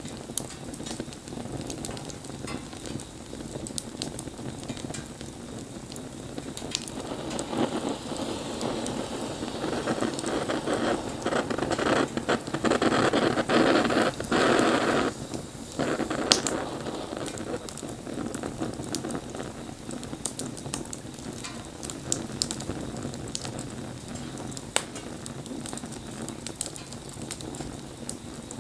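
Wood bonfire crackling and hissing, with frequent sharp pops. A louder rushing swell builds over several seconds and cuts off suddenly about halfway through.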